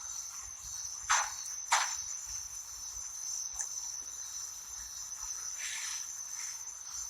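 Steady high-pitched insect chirring, like crickets, holding one even tone. Two short, loud noises cut in about a second in and again just under a second later.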